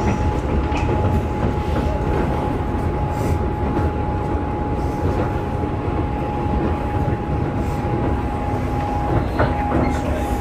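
Steady running noise inside a local electric train carriage at speed: a continuous rumble of wheels on rail, with a thin steady tone held over it.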